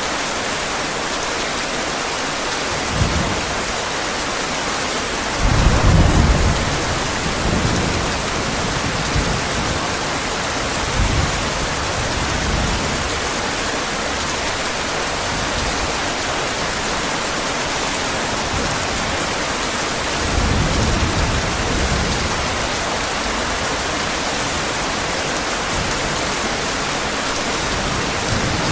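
Heavy rain falling steadily with a constant hiss, and low rolls of thunder rumbling through it: a short one about 3 s in, the loudest about 6 s in, and another about 20 s in.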